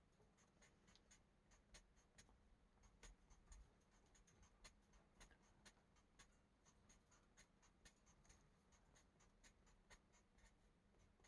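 Very faint coloring marker strokes on a paper colouring page: irregular small ticks and scratches as the tip is dabbed and worked over the page.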